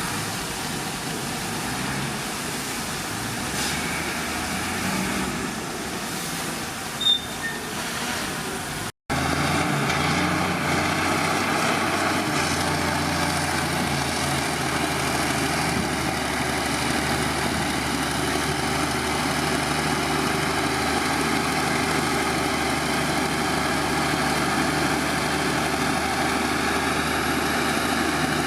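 Heavy diesel earthmoving machinery running steadily. A short sharp sound comes about seven seconds in, and the sound breaks off for an instant about nine seconds in; after that the engine is a little louder and steadier.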